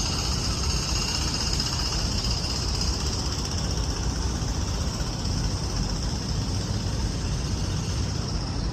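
Steady outdoor city rumble, with a high-pitched whine that slowly fades.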